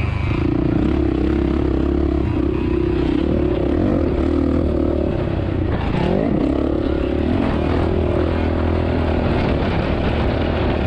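2007 Suzuki RM-Z450 motocross bike's single-cylinder four-stroke engine running under load, its pitch falling and then climbing again about six seconds in, with wind rumbling on the helmet camera's microphone.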